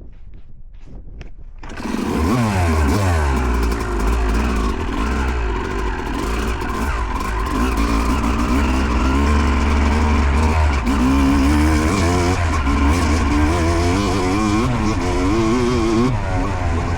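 Yamaha YZ250 two-stroke dirt bike engine starts up loud about two seconds in, then revs rise and fall continuously as the bike rides off.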